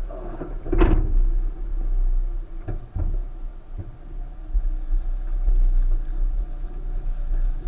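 1999 Subaru Forester's flat-four engine running with a steady low rumble, heard from inside the cabin while the car sits stopped on the rock climb. There is a loud knock about a second in and a couple of fainter knocks around three seconds in.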